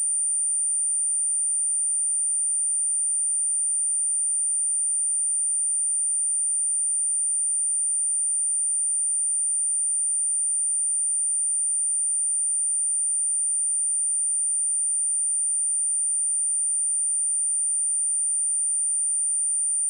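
A continuous 9075 Hz sine-wave test tone: a single steady high-pitched pure tone, unchanging in pitch and loudness, used as a speaker test and speaker-cleaning tone.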